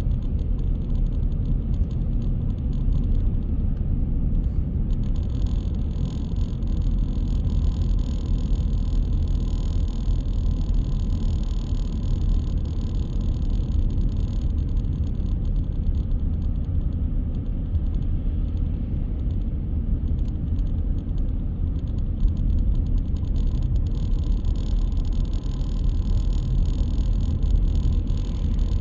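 Car driving at a steady pace: a steady low rumble of engine and road noise.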